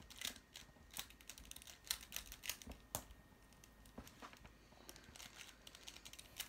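Quiet, irregular plastic clicks and clacks of a Mastermorphix twisty puzzle being turned quickly by hand.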